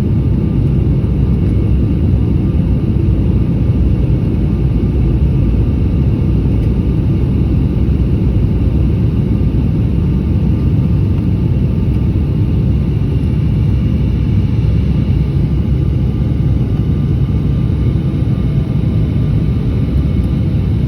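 Steady low rumble of an airliner's engines and airflow heard inside the passenger cabin in flight, with a few faint steady tones above it.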